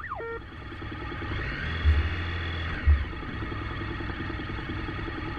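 A police siren cuts off right at the start, then a vehicle engine runs steadily, with two dull thumps about two and three seconds in.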